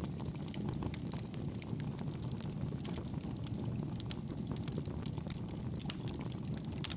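Fire burning in a fireplace: a steady low roar with frequent small crackles and pops.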